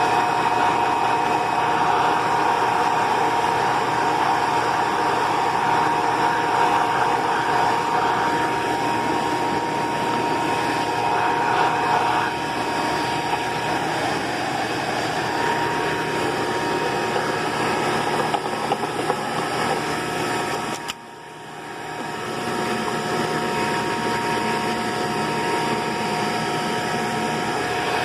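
Hoover PowerMax II vacuum cleaner running with a steady whine. About two-thirds of the way through, the sound drops away suddenly and builds back up within a second.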